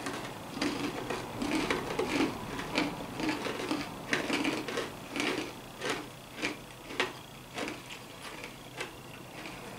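Hard pretzel pieces being chewed with the mouth close to the microphone: a run of irregular crunches, several a second at first and spacing out toward the end.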